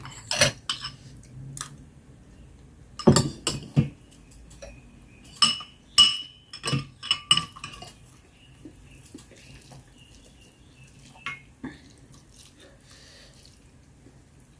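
Eating utensils clinking and knocking against dishes: several quick clusters of sharp clicks over the first eight seconds, then a couple of fainter knocks later.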